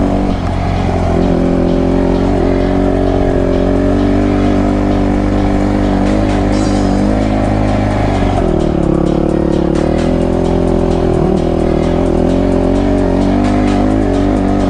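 Motocross bike engine running at a fairly steady speed, its pitch dropping and settling lower a little past halfway.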